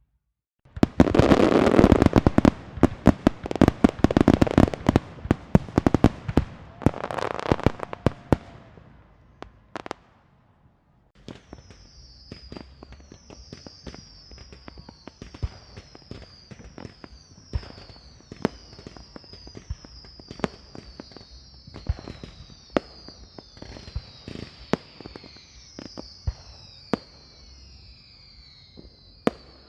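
Fireworks. First comes a rapid string of loud firecracker bangs lasting about eight seconds. After a brief pause, there are scattered pops and crackles under many overlapping high whistles that each fall slightly in pitch.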